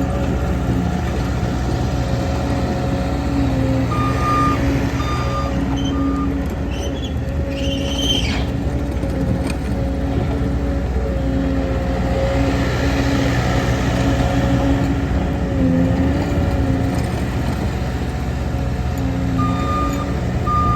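Bobcat T62 loader's diesel engine running steadily, with its backup alarm beeping in short runs about four seconds in and again near the end. A brief high squeal is heard about eight seconds in.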